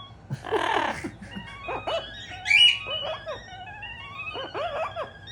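Amazon parrot calling along with short electronic synth notes from an Artiphon Orba 2: a harsh squawk about half a second in, then a run of short calls that rise and fall in pitch, with the synth's steady tones sounding between them.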